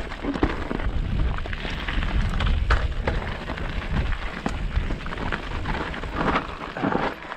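Mountain bike rattling down a rough, rocky trail, with a steady low rumble of wind buffeting the microphone and many sharp knocks and clatters from the bike over rocks.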